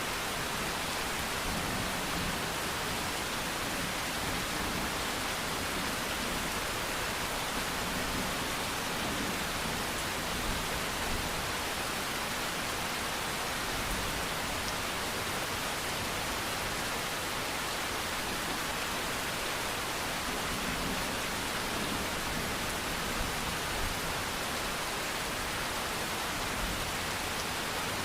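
Steady rainfall, an even hiss of rain falling with a few slightly louder drops now and then.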